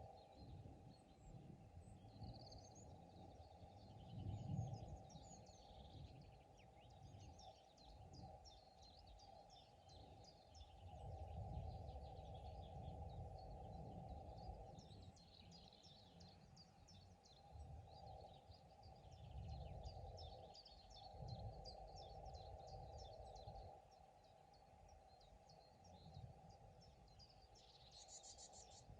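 Faint birdsong: several birds singing quick, high, twittering phrases. Underneath runs a low, uneven rumble that swells and fades every few seconds.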